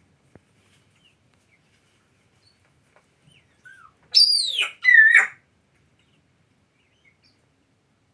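A parrot calling: a short soft chirp, then two loud calls that fall in pitch, back to back, about four seconds in.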